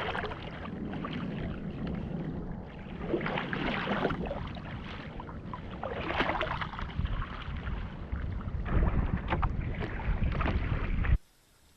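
Seawater splashing and sloshing around a kayak, with wind rumbling on the microphone and louder rushes of water every few seconds. The sound cuts off abruptly near the end.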